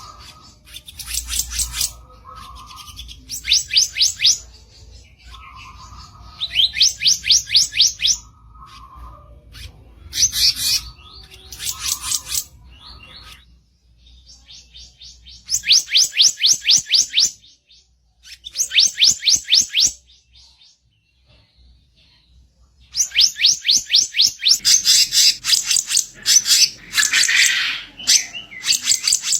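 Kicap ranting bird giving a harsh, rasping rattle, fast trains of clicks repeated in bouts of a second or two with short pauses between. After a brief lull about two-thirds of the way in, the rattling runs almost without a break.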